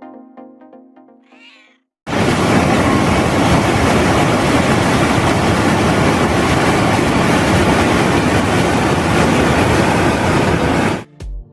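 Music with a cat meowing once near the start, then a loud steady rushing noise of about nine seconds that cuts off suddenly.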